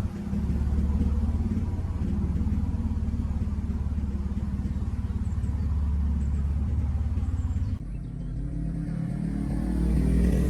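Win 100cc motorbike engine running steadily with a low rumble; about eight seconds in it drops in level and then builds up again.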